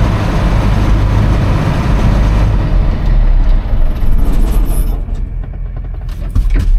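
Large diesel engine of a Versatile four-wheel-drive tractor running with a heavy, steady low hum, easing back after about three seconds and dropping lower about five seconds in. There is a brief high hiss around four seconds and a clunk near the end.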